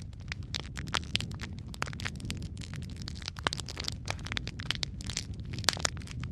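Wood fire crackling: a dense, irregular run of sharp pops and snaps over a steady low rumble of burning, with a few louder pops about three and a half seconds in and near the end.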